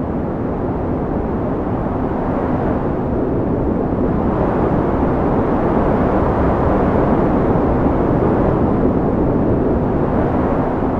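Strong wind blowing steadily as a deep rushing noise, swelling a little in the middle.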